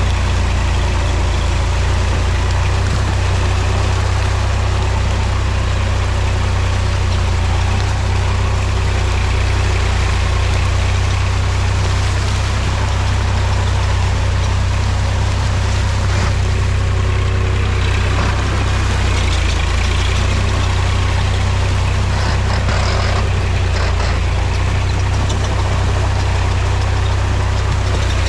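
Mahindra tractor's diesel engine running at a steady, unchanging speed, with a strong deep hum.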